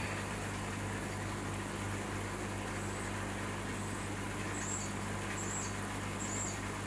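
Steady low hum over an even background rumble, with three short high bird chirps about a second apart in the second half.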